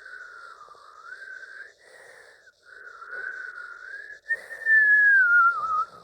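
Whistling, howling wind sound of a tornado: a wavering tone that rises and falls in long swells, much louder for the last two seconds.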